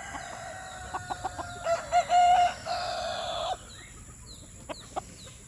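Rooster crowing once: one long crow, loudest about two seconds in, that turns rough and cuts off about three and a half seconds in. Short clucks from other chickens are scattered around it.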